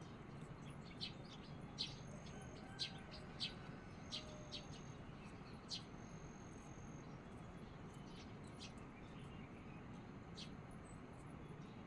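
Birds chirping: a string of short, sharp high calls in the first half, with a few thin held whistled notes, over a faint steady background hiss.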